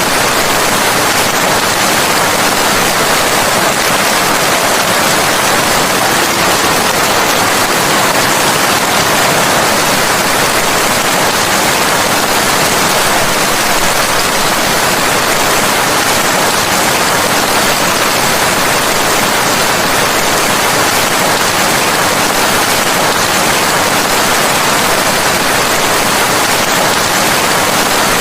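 Steady, unbroken rain noise, an even hiss with no separate drops, thunder or changes in level.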